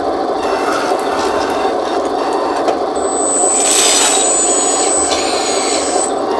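Electric hydraulic pump and motors of a 1:14-scale RC skid steer loader running steadily with a dense mechanical buzz. A thin high whistle joins about three seconds in and lasts almost to the end.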